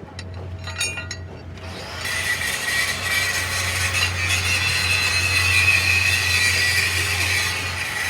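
A few sharp clicks, then a power tool starts about two seconds in and runs steadily with a high whine, stopping just after the end.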